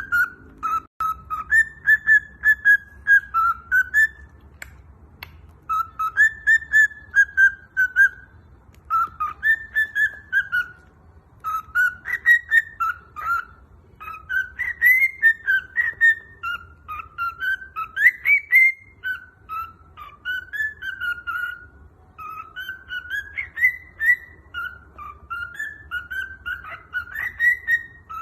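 Pet cockatiel whistling a learned song, a steady run of short, gliding whistled phrases with brief pauses between them.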